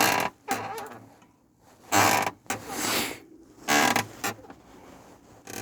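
VAZ 2104 seat creaking in a series of short creaks, about one every second. The creak comes from the seat's mounting, and it is the creak heard from the seat over bumps.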